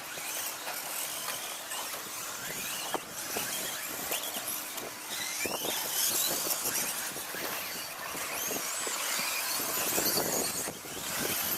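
Several 2WD RC stadium trucks racing together: high-pitched motor whines rising and falling as they speed up and slow down, with scattered clicks and knocks from the trucks on the track.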